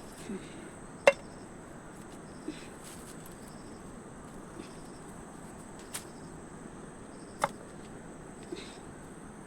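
Insects chirping steadily at a high pitch, with a few sharp clicks or snaps, the loudest about a second in and others near six and seven and a half seconds in.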